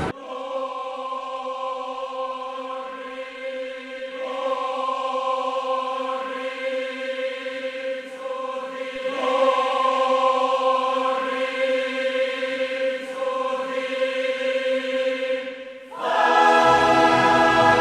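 A choir holds long, sustained chords that shift a couple of times. Near the end it dips briefly, and a fuller, louder orchestral passage with deep bass comes in.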